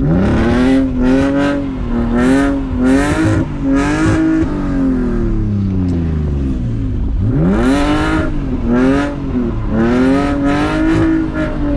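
BMW E46 engine with aftermarket headers revving hard in third gear during a wet drift. The revs climb sharply and waver up and down at high rpm, drop away about halfway through, then climb again and hold before falling near the end.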